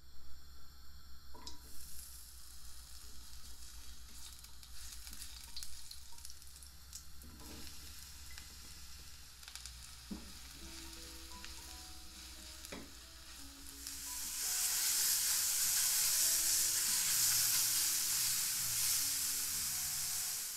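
Sliced fresh shiitake mushrooms and ginger sizzling in hot oil in a non-stick wok, stirred with a spatula that scrapes and clicks against the pan. About two-thirds of the way through the sizzle grows louder and brighter, with a steady low hum underneath.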